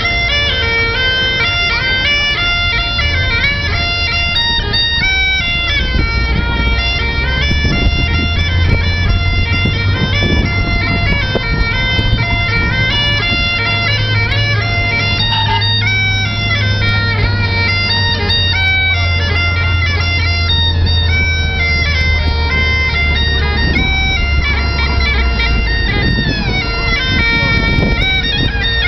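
Bagpipes playing a tune: steady drones under a chanter melody that steps from note to note. A low rumble sits underneath for much of it.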